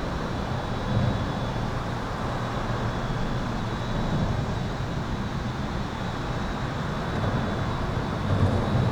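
Highway traffic passing overhead and alongside, heard from under an overpass: a continuous rumble of tyres and engines that swells as vehicles go by, about a second in, around four seconds in and again near the end. A faint, steady, high-pitched electrical buzz sits above it.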